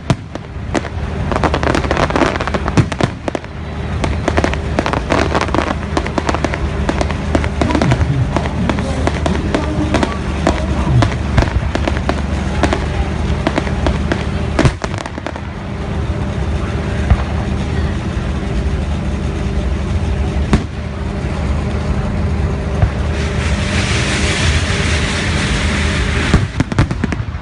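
Fireworks display: a dense run of crackling and sharp bangs, thickest in the first half, with a hissing burst about three quarters of the way through. A steady low hum runs underneath.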